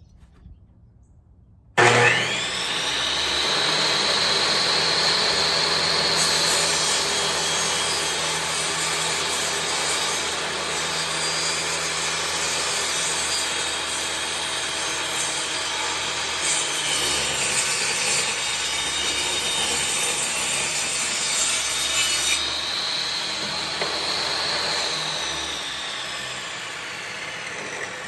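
Table saw switched on about two seconds in, its motor spinning up to a steady whine. The blade then cuts a rabbet pass along a wood strip for about fifteen seconds, the pitch sagging under load, before running free again and getting quieter near the end.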